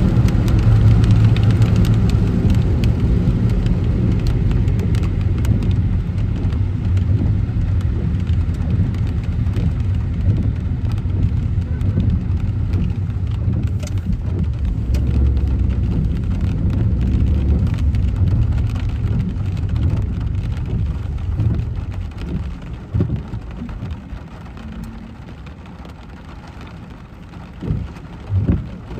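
Car driving in heavy rain: steady low road and engine rumble with rain hiss, easing off after about three quarters of the way through to a quieter rain hiss. A few soft thumps about a second apart near the end.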